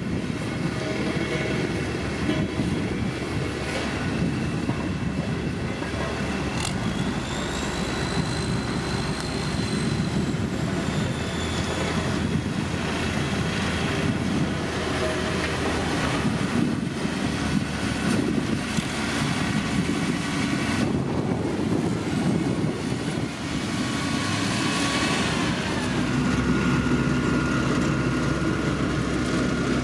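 Heavy motor grader's diesel engine running steadily under working load while it pushes gravel, with a faint high whine for a few seconds about a quarter of the way in.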